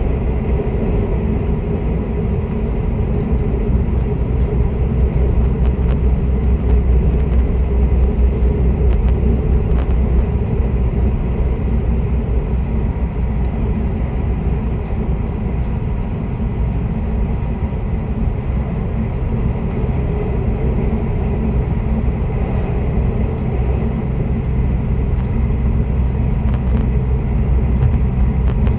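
Passenger train running along the line: a steady low rumble of wheels and running gear.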